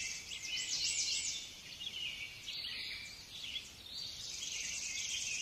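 High-pitched chirping and trilling of small songbirds, continuous with a brief lull a little past three seconds in.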